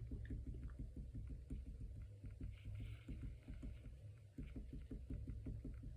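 Paintbrush stippling on watercolour paper: soft, dull taps several times a second over a low steady hum.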